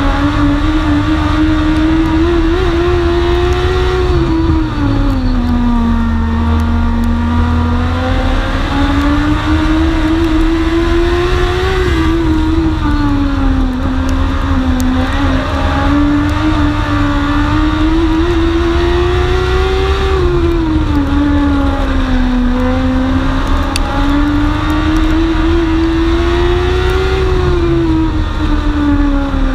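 Onboard sound of a dwarf race car's motorcycle engine at racing speed, its pitch climbing and falling in a cycle of about eight seconds as it accelerates down the straights and eases off through the turns of a short oval.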